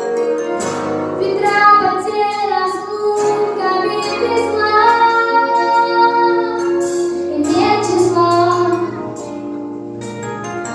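A song with a high, young-sounding voice singing long held notes over a steady instrumental backing.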